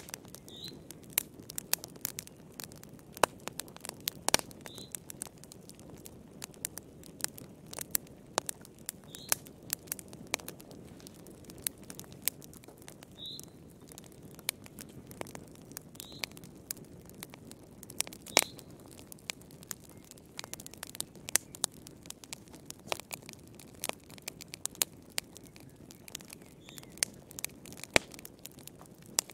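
Fireplace wood fire crackling, with sharp irregular pops over a low steady rush, and a faint short high chirp every few seconds.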